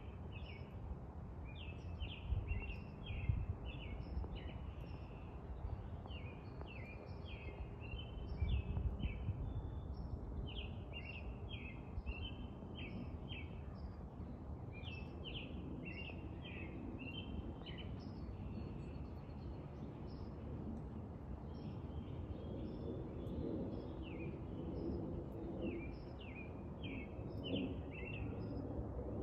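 Songbirds chirping and twittering in quick, repeated short notes throughout, over a steady low rumble.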